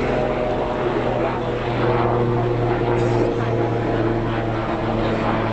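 River passenger boat's engine running at a steady cruise, heard on board: an even drone with a strong low hum and a few steady higher tones over a wash of noise.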